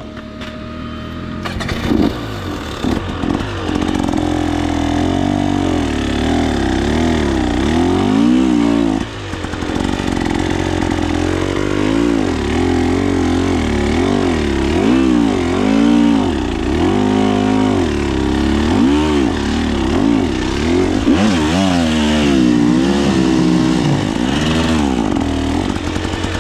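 KTM 300 XC-W single-cylinder two-stroke dirt bike engine revving up and falling back again and again as the throttle is worked, with a short drop about nine seconds in.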